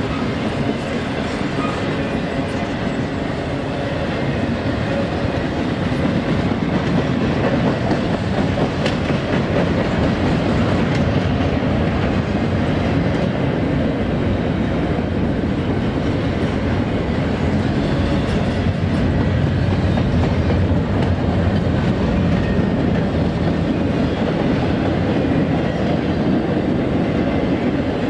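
Freight train cars of a CSX intermodal train rolling past, a steady loud rumble of wheels on rail, a little louder from about six seconds in.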